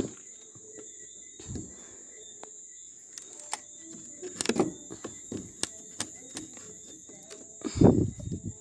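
Hammer prying a nail out of a wooden concrete-form board: scattered clicks and knocks of metal on wood, with a heavier thud near the end.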